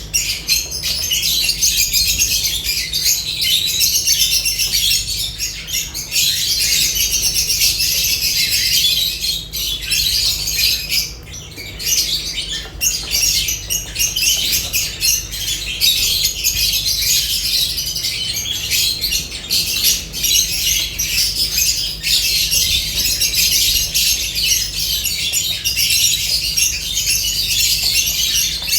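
A flock of lovebirds chattering and chirping: a dense, unbroken stream of short, high calls, with a brief lull about eleven seconds in.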